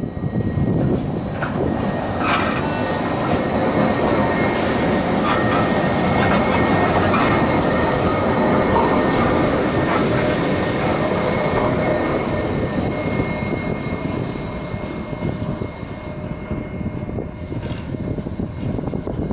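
Jungfrau Railway electric rack railcar pulling away and passing close by, its wheels and running gear rumbling over the track. A loud high hissing noise builds as the cars go by, from about five to twelve seconds in, and the sound then eases as the train climbs away.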